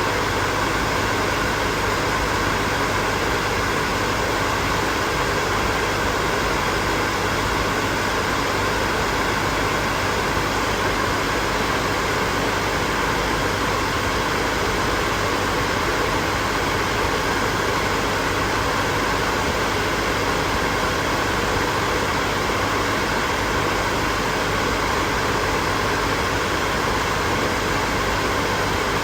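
Hair dryer running steadily: an even rush of blown air with a faint, steady hum from its motor, unchanging in pitch and loudness.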